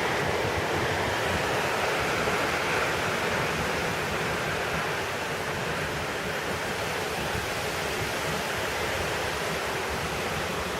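Typhoon rain and wind making a steady, even rushing noise, with no let-up or gusts standing out.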